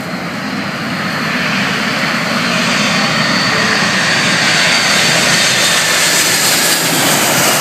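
Boeing 747's four turbofan engines growing louder as the airliner passes low overhead on final approach to land. The noise peaks in the second half, with a high whine dropping in pitch as it goes by.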